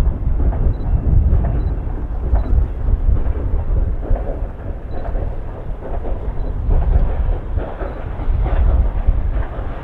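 Train passing close by with a loud, deep rumble that pulses unevenly.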